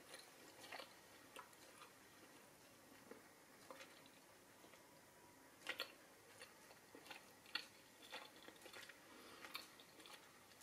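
Faint chewing and mouth sounds of someone eating a mouthful of chicken curry, with scattered soft clicks, the clearest about halfway through.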